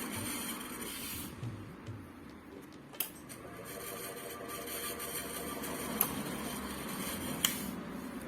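Ceiling fan motor with a freshly rewound coil running on a test: a steady motor hum, with a few sharp clicks every few seconds.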